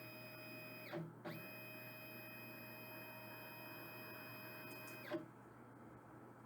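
Printer running: a steady whine of several pitches from its motor, breaking off briefly with a click about a second in, resuming, and stopping with a click about five seconds in.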